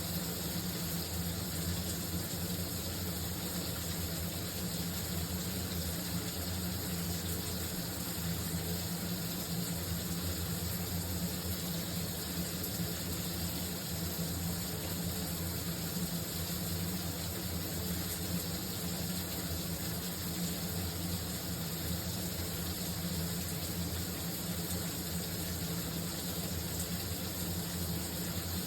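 Shower water running in a steady, unbroken spray, with a low rumble beneath the hiss.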